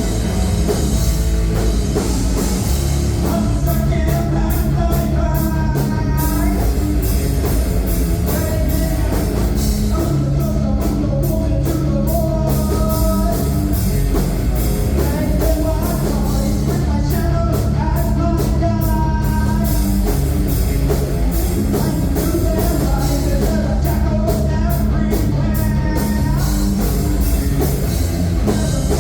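Live heavy rock band playing: distorted guitars, bass and drum kit, with sung vocal lines coming in and out.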